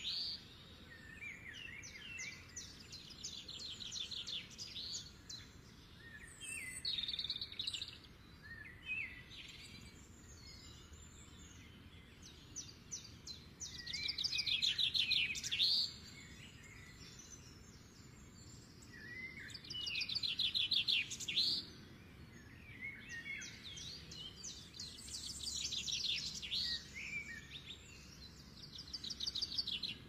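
Songbirds singing: fast, high trilled phrases of a second or two, repeated every few seconds, with short descending notes between them.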